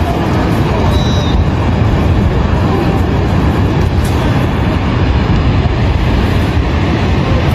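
A loud, steady, low rumbling roar with no clear pitch or rhythm.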